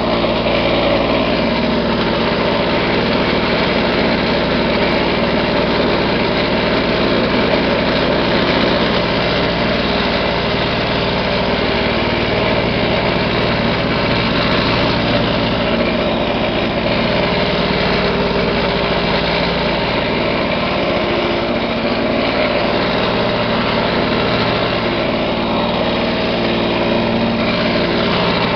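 1980s Lawn-Boy two-stroke mower engine running steadily at a constant speed, shortly after a cold start.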